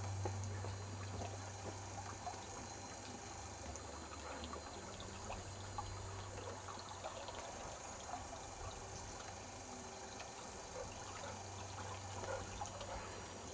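Water trickling steadily, with small crackling splashes.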